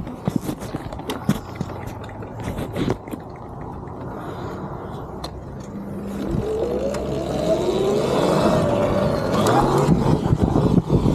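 Electric dirt bike riding: clicks and knocks from the tyres over rough ground, then from about halfway the motor's whine rising in pitch as the bike accelerates, getting louder.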